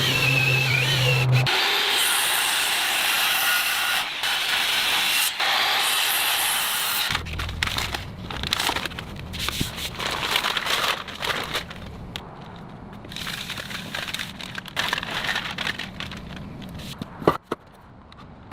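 Carpentry on wooden planks. A power drill's motor runs steadily for about a second and a half and stops. Then comes several seconds of dense scraping, sawing-like noise on wood, followed by scattered knocks, clicks and rubbing as boards are handled.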